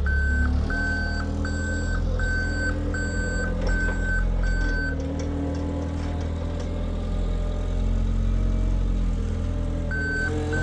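Gas-powered Linde H20T forklift truck engine running with its reversing alarm beeping about one and a half times a second while it backs up. The beeping stops about halfway through and starts again near the end.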